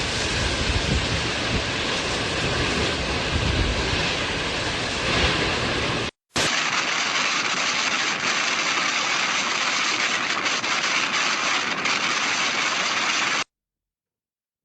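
Storm wind rushing and buffeting the microphone, with heavy low rumble. About six seconds in it cuts abruptly to a second stretch of steady, hissing storm noise with less rumble, which stops dead near the end.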